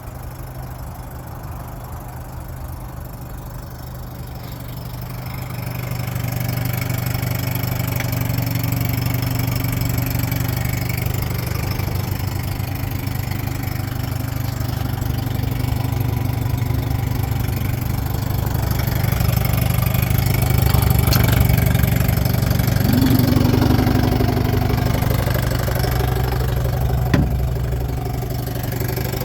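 1960 Johnson 5.5 hp two-stroke outboard motor running steadily at idle, getting louder about five seconds in, with one sharp click near the end.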